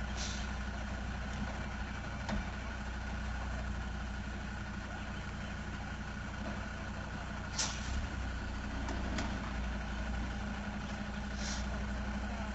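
Truck engine running steadily with a low, even hum, broken by a few short hisses.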